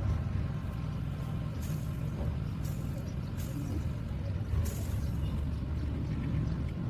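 A steady low hum and rumble, with a few brief hisses.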